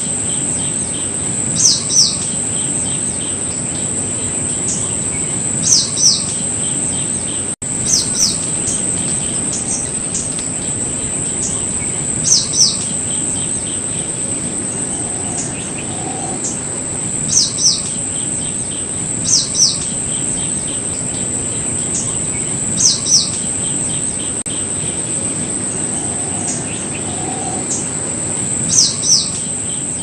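A bird calling repeatedly, each call a pair of quick descending chirps, coming every couple of seconds. Under the calls runs a steady high-pitched drone like an insect's, with a soft background hiss.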